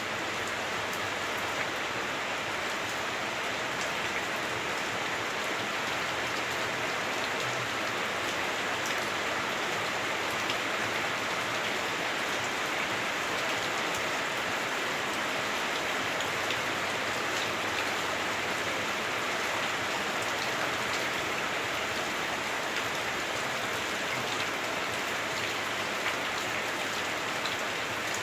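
Heavy rain drumming steadily on a house roof, heard from indoors, with scattered individual drops ticking through the steady hiss.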